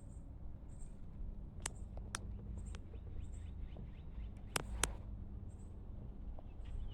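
A few sharp clicks and knocks over a steady low rumble, with a close pair of louder knocks about four and a half seconds in.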